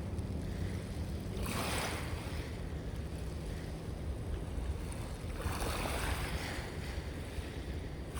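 Sea waves washing in twice, about two seconds in and again about six seconds in, over a steady low rumble of wind on the microphone.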